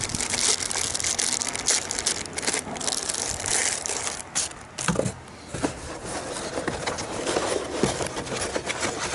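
Plastic packaging crinkling and rustling as an electronics receiver is unwrapped by hand, with many small crackles and clicks.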